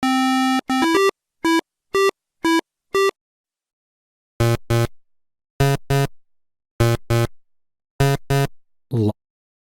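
Synthesized electronic tones: one long tone, then a run of short beeps about half a second apart, then four pairs of lower, buzzier notes repeating about every 1.2 seconds, and one last short note near the end.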